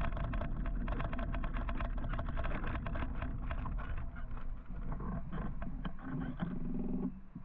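Riding noise from an electric motorcycle in traffic: steady low wind rumble on the microphone with rapid rattling clicks, which thin out after about four seconds. Near the end, short pitched tones start and stop a couple of times.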